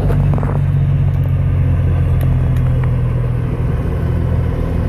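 Motor vehicle engine running steadily: a low, even hum with road rumble.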